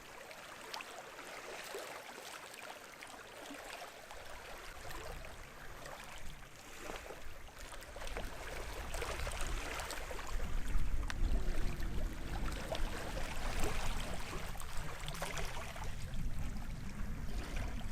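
Small sea waves washing and fizzing on the shore, growing gradually louder, with a low rumble of wind on the microphone building up from about halfway.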